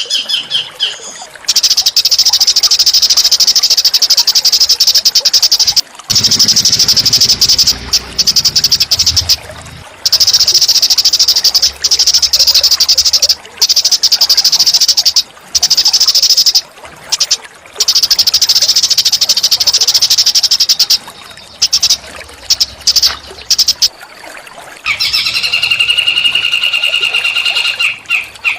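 Small songbird song for training a caged bird: long, rapid, buzzy high trills in bursts of several seconds, broken by short pauses. Near the end comes a clearer, lower whistled phrase.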